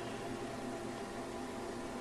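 Steady background hiss with a faint steady hum: the noise floor of a Skype call's microphone.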